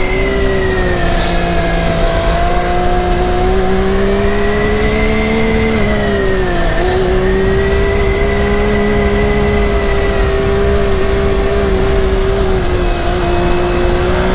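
Motorcycle engine held in first gear at a steady high engine speed, its pitch wavering gently, with a brief dip and recovery in revs about seven seconds in, over a constant rushing noise.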